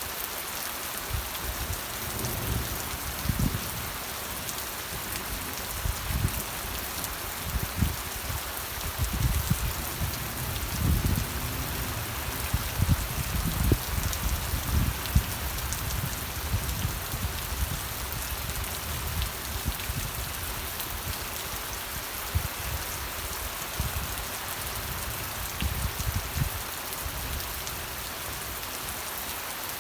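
Steady rain falling, an even hiss, with irregular low thumps that are busiest between about six and sixteen seconds in.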